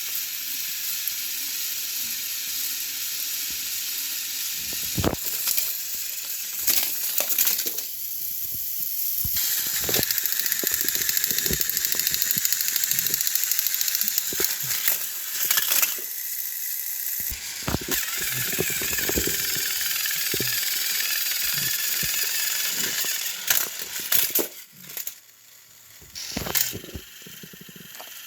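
Battery-powered Thomas & Friends toy engines running on plastic track: a steady high whir in long stretches, broken by clicks and clattering knocks.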